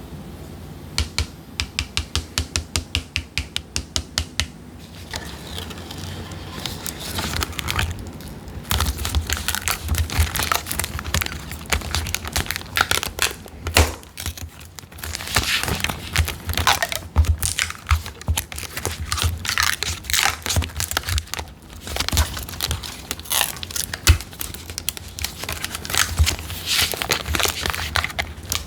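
Close-up crinkling, crackling and tearing of a thin sheet being handled and peeled in resin crafting, opening with a run of even sharp clicks about four a second for a few seconds.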